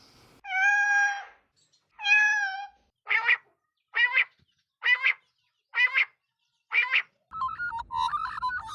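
A bird calling: two long, drawn-out pitched calls, then five short calls about a second apart. Near the end a different, busier warbling sound starts.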